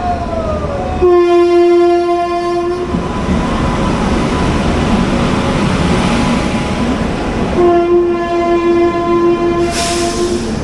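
Indian Railways train at a station, its locomotive horn sounding two long blasts a few seconds apart over the steady rumble of the moving train.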